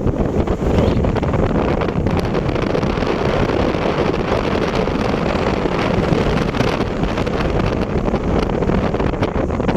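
Wind buffeting the microphone: a steady, loud rushing noise with no break.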